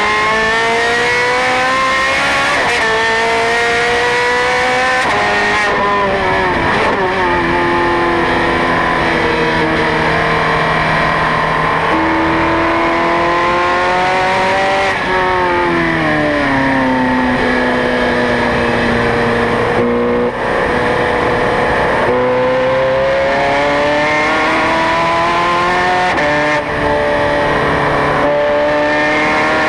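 Ferrari 430 Scuderia's 4.3-litre V8 being driven hard on a racing circuit, its pitch climbing through the gears with short drops at each shift. About halfway through the pitch falls away and holds low for several seconds, then it climbs through the gears again to the end.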